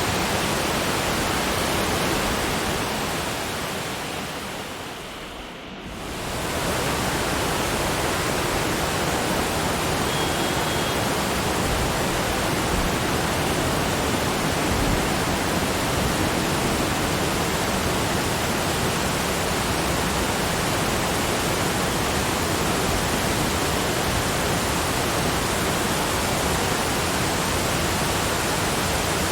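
Steady, even rushing of falling water, like a waterfall. It fades down and back up about five seconds in.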